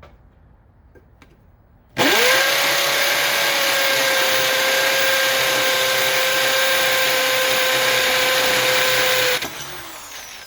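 Chicago Electric 1/2 inch corded hammer drill switched on about two seconds in. Its motor winds up quickly to a steady high whine and runs for about seven seconds. It is switched off near the end and winds down with a falling whine.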